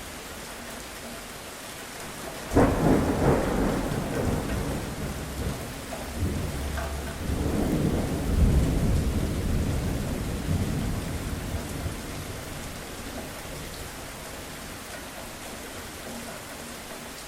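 Steady rain with a thunderclap: a sudden loud crack about two and a half seconds in, then a deep rolling rumble that swells again and fades away over the next several seconds.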